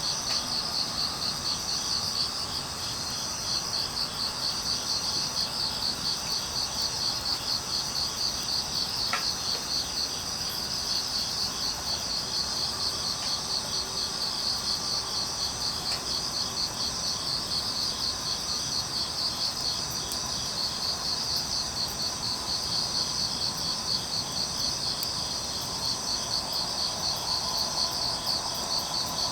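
Crickets chirping steadily in a continuous rhythmic pulsing chorus, with a soft background hiss. A couple of faint crackles from the dying wood fire.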